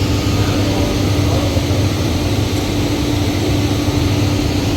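A steady machine drone: a constant low rumble with an unchanging hum running under it.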